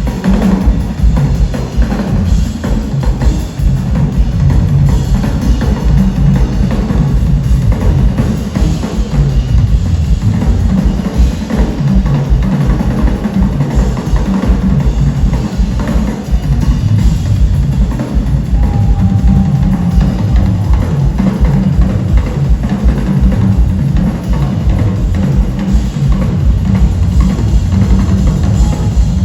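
Live band music with the drum kit loudest: bass drum and snare played steadily and densely.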